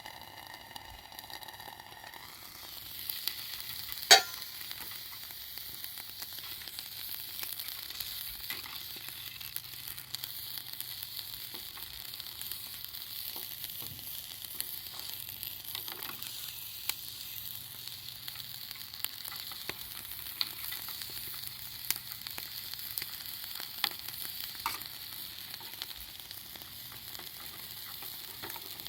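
Campfire crackling over a steady hiss, with scattered sharp pops; the loudest pop comes about four seconds in.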